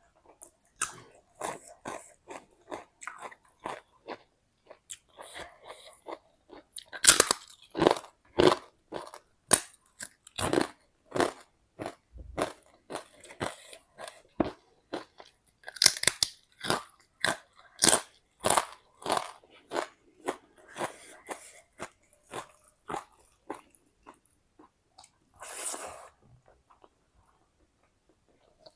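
Close-miked biting and chewing of crisp food: a steady run of sharp crunches, loudest in two spells about seven and sixteen seconds in.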